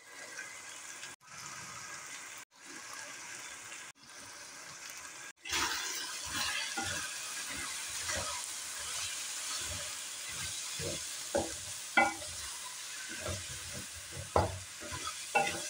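Minced meat and onions sizzling in a metal pan, with short dropouts in the first few seconds. From about five seconds in, the frying is louder and a wooden spoon stirs through it, scraping and knocking against the pan.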